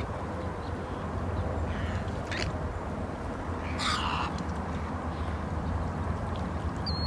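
Two harsh, raspy bird calls, about two seconds apart, over a steady low rumble.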